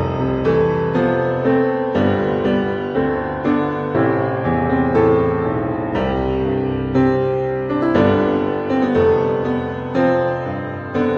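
Gentle piano music: steady chords and melody notes struck about twice a second.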